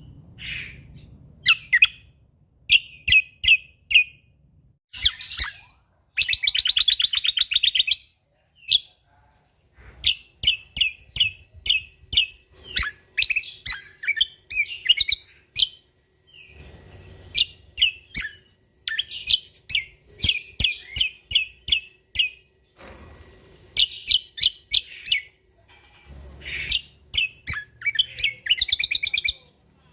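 Cucak kombo (kecial kombo) singing vigorously: phrases of sharp, quickly repeated chirps and whistles broken by brief pauses, with a longer fast trill about six seconds in.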